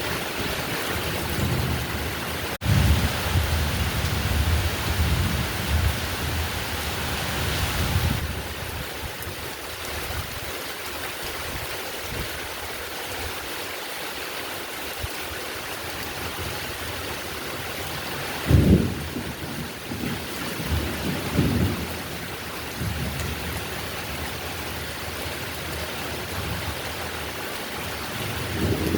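Steady heavy rain with rolling thunder. Deep rumbles run through the first eight seconds, a sharper thunderclap comes past the middle and is followed by more rumbles, and the thunder builds again near the end.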